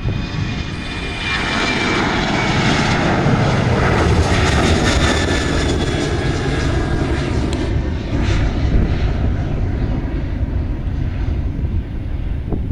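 Airliner passing close by at low altitude. Its engines are loud, with a high whine that falls slowly in pitch as it goes by.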